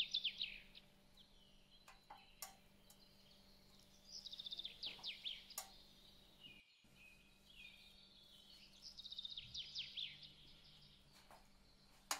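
A bird singing: three phrases about four and a half seconds apart, each a quick run of high chirps falling in pitch, over a faint steady hum.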